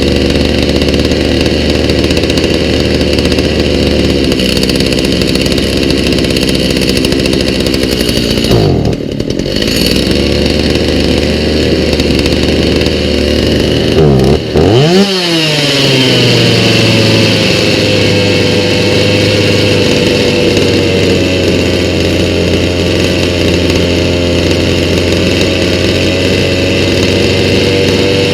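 Stihl MS290 chainsaw's two-stroke engine running on a newly fitted aftermarket carburetor. The engine speed dips and recovers twice, about nine and fifteen seconds in, then holds steady with a slowly falling pitch.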